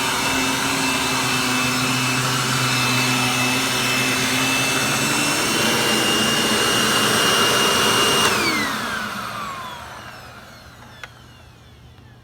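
Hoover vacuum cleaner running with a high motor whine that rises slightly in pitch, then switched off about eight seconds in, the whine sliding down as the motor spins down. A single click near the end.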